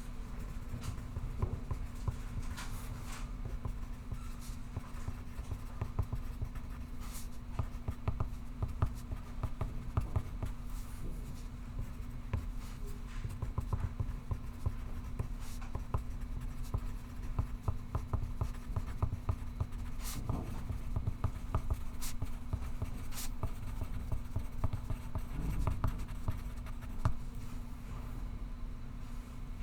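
Pencil writing on paper: quick, irregular scratchy strokes that keep on throughout, over a steady low hum.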